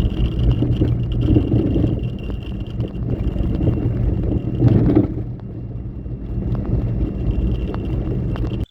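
Car driving along a road: steady engine and road noise, which cuts off suddenly near the end.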